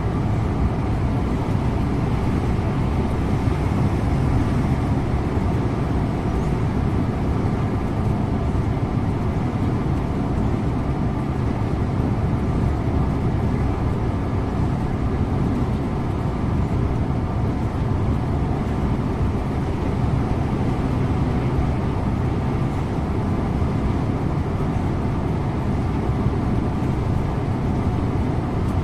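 Scania InterLink coach driving along steadily, its engine running under an even, constant road and tyre rumble, heard from the driver's seat. The sound stays level with no gear changes, braking or other events.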